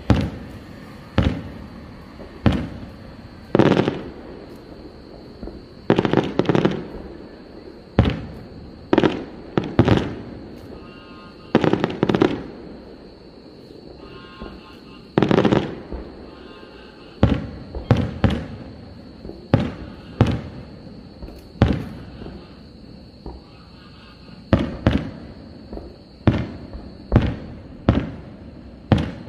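Aerial firework shells bursting in the sky, a series of loud booms with echoing tails, unevenly spaced and sometimes in quick pairs, with a short lull about halfway through.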